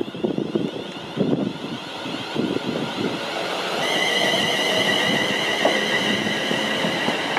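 London Northwestern Railway electric multiple unit running into the platform: irregular clattering knocks from the wheels on the track, then from about four seconds in a steady high-pitched squeal with a rising rumble as the train slows.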